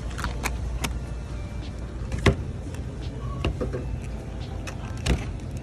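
Items being handled at a store checkout: a few sharp knocks and clatters, the loudest about two seconds in and another near the end, over a steady low hum.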